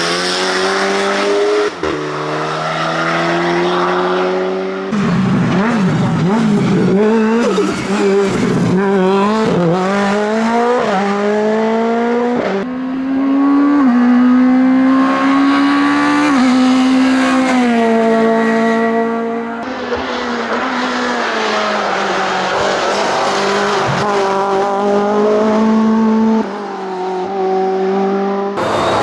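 Hillclimb race cars running hard in a string of separate passes, each engine note climbing and dropping through gear changes, with some tyre squeal.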